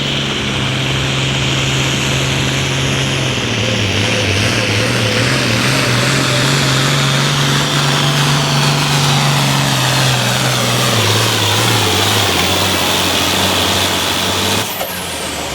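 Turbocharged altered farm tractor pulling engine running hard under load through a pull, with a high turbo whistle over the engine note. Near the end the throttle comes off: the engine drops and the turbo whine winds down.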